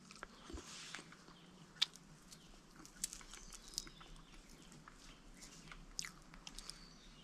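Faint chewing and soft tearing as a piece of cassava root is peeled and eaten by hand, with a few small sharp clicks scattered through.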